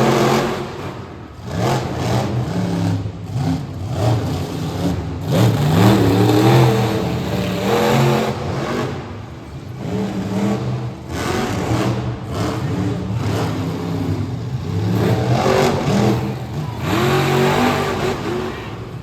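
Monster truck engines revving hard in repeated throttle surges, pitch climbing and dropping with each burst of throttle.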